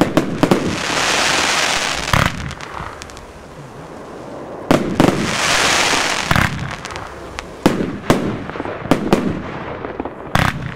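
Nico 'Penthouse' firework battery firing: a string of sharp bangs as shots launch and burst overhead. Twice, about one second and about five seconds in, a long dense hissing crackle follows as the stars glitter out.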